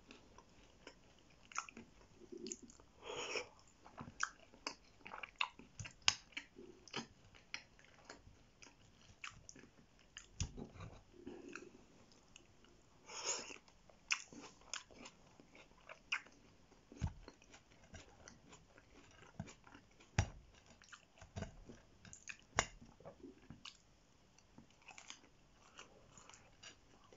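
Close-miked chewing of chicken massaman curry and fries: irregular wet mouth clicks and smacks, with a few dull thumps.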